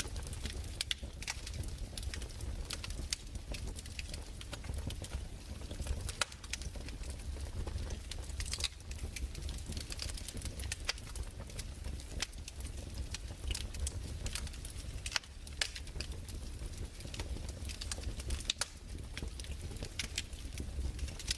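Wood fire crackling: irregular sharp snaps and pops, several a second, over a steady low rumble.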